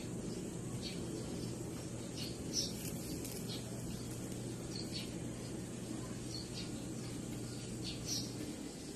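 Lovebird chirping: short, high chirps in irregular clusters. Underneath is a steady low hum that stops near the end.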